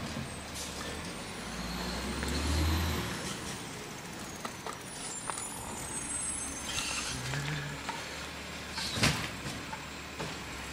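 Garbage truck running close by, its engine rising and easing off a couple of seconds in, with a single sharp knock about nine seconds in.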